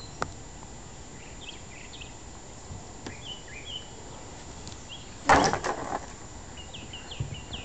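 Small birds chirping in short high calls, in two runs, over steady outdoor background noise. A brief loud rush of noise breaks in about five seconds in.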